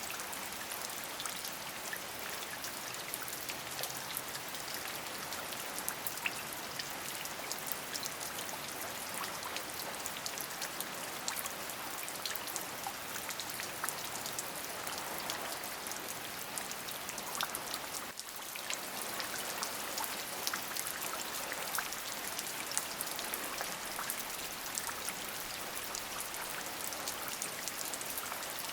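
Steady rain: an even hiss dotted with many separate drop ticks, dipping briefly about eighteen seconds in.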